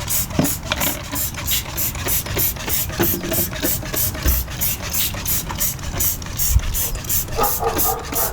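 Hand trigger spray bottle squirting degreaser in quick repeated pumps, about three to four short hissing sprays a second.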